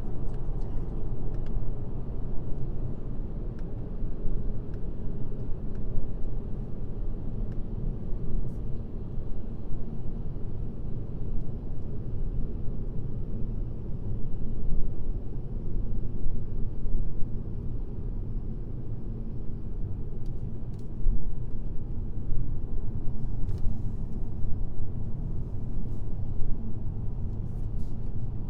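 Car driving at highway speed: a steady, low road and tyre rumble with engine hum.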